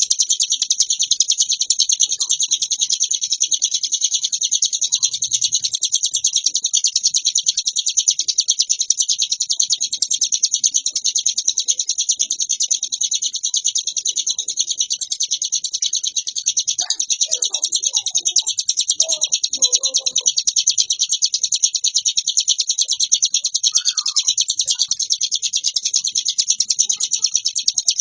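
A ciblek gunung songbird singing nonstop: an unbroken, drill-like stream of very rapid, high chirping notes.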